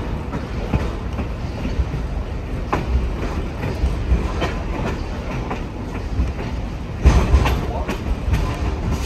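Train coach riding on the rails: a steady low rumble with irregular wheel clicks over the track joints, louder for a moment about seven seconds in.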